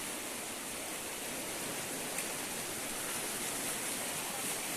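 Steady rushing hiss of water, with one light click about two seconds in.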